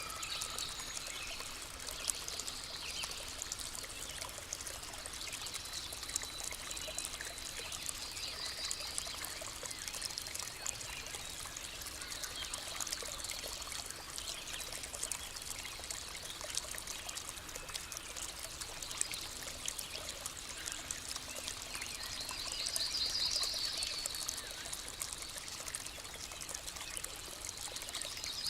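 A small stream trickling steadily, with a fine, crackly splashing. A bird calls a few times over it; the loudest is a short trill about three-quarters of the way through.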